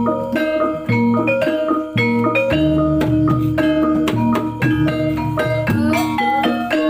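Javanese gamelan music accompanying a kuda lumping dance: a quick, continuous run of struck metal-keyed mallet instruments over low ringing tones, with drum strokes.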